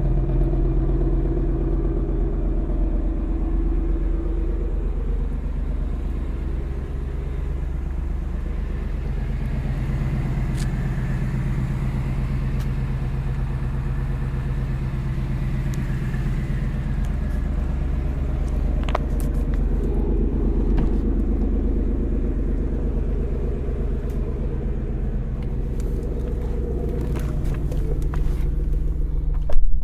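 2024 Ford Mustang GT's 5.0-litre V8 engine and exhaust running steadily, with a few faint ticks and one loud sharp knock just before the end.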